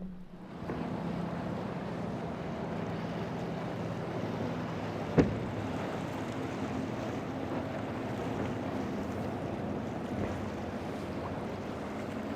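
A boat's motor running over steady wind noise and waves, with one sharp knock about five seconds in.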